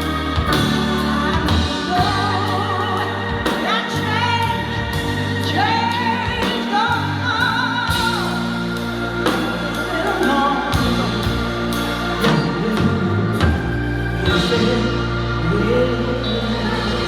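A woman singing with vibrato over backing music with a steady beat and sustained bass notes.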